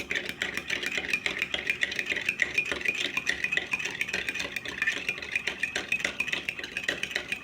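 A spoon stirring coffee in a cup, clinking quickly and steadily against the cup's sides.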